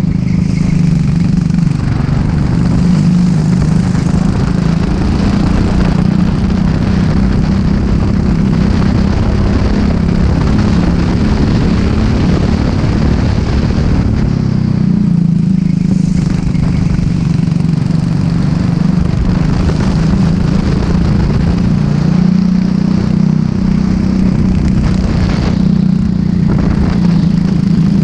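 Racing kart engine running hard at speed, with short lifts and dips in engine note about halfway through and again near the end, as for corners.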